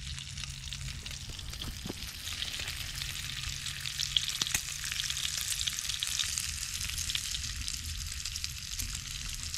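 Food sizzling and crackling in a hot pan, a steady hiss full of small pops over a low hum.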